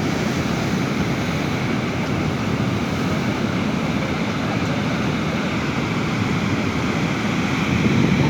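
Sea waves washing on the shore: a steady surf noise that swells a little near the end.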